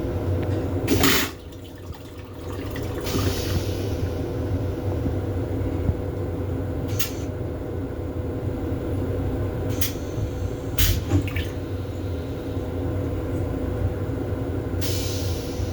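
Toilet in a Metro-North M7 railcar restroom flushing over the steady low rumble and hum of the moving train, with a few sharp clicks.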